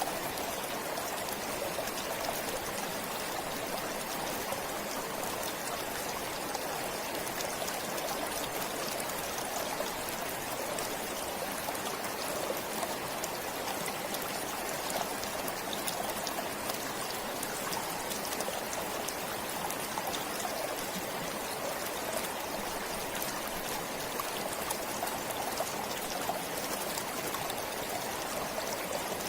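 A forest stream flowing steadily over stones, a constant rushing and trickling with many small splashes.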